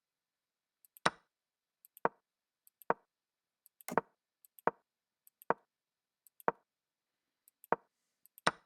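Nine wooden piece-move sound effects from an online chess board as the game's moves are stepped through, about one a second, each with a faint click just before it.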